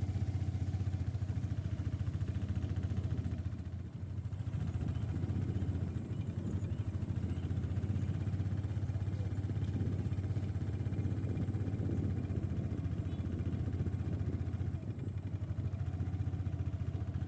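An engine running steadily with a low, even hum, dipping briefly twice.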